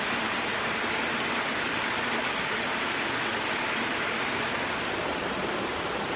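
Steady, even rushing noise with no rhythm or changes.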